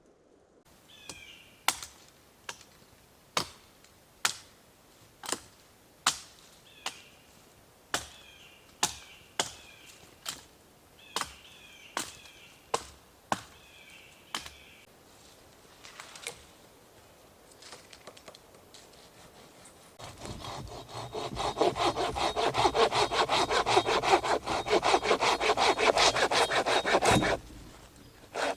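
Hand saw cutting through wood with fast back-and-forth strokes, starting about two-thirds of the way in and pausing briefly near the end. Before that, a series of sharp single clicks about once a second.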